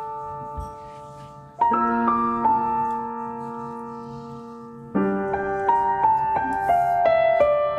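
Background piano music: a slow piece with held chords and a run of single notes from about five seconds in.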